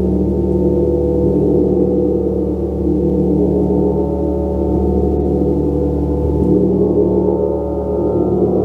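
Gong played continuously, a dense sustained wash of overlapping tones with a pulsing low hum, without distinct single strikes.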